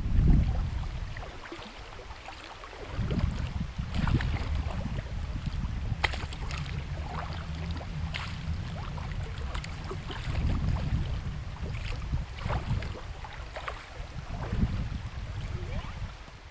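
Water splashing and sloshing around a small inflatable packraft as it is paddled on a river, with a strong rumble of wind on the microphone. The sound stops abruptly at the end.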